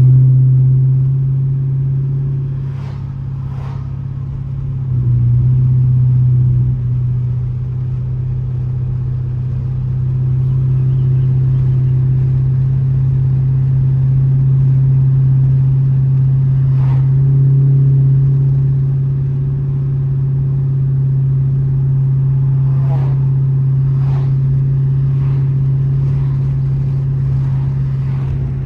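Straight-piped 2012 Dodge Charger SRT8's 6.4-litre Hemi V8 exhaust droning steadily while cruising, swelling a little under throttle twice.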